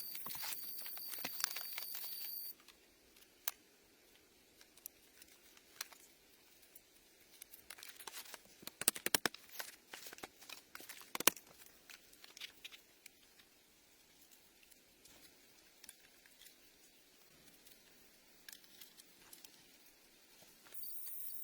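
Irregular dry crackling and rustling, like material being handled or torn, busiest in the middle. A steady high insect chirring is heard for the first couple of seconds, cuts off suddenly, and returns near the end.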